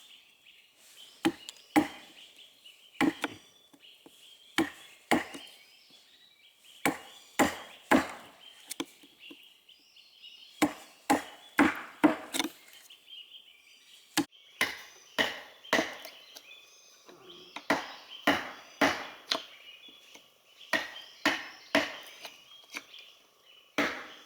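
Wood being chopped by hand: sharp blows land irregularly, often two or three in quick succession with short pauses between, over a faint steady high hum.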